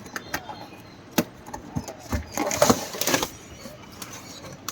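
Cardboard box packaging being cut open and handled: scattered clicks and knocks, with a longer scraping rustle about halfway through.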